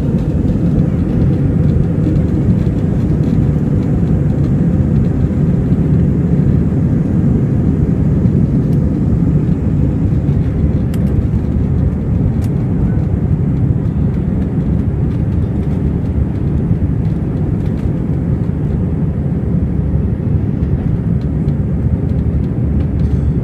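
Airbus A321 cabin noise during takeoff: a steady, loud low rumble of the jet engines and rushing air heard from inside the cabin.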